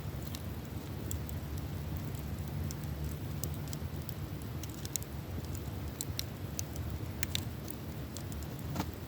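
Wood campfire crackling, with irregular sharp pops and snaps over a steady low rumble, and one louder pop near the end.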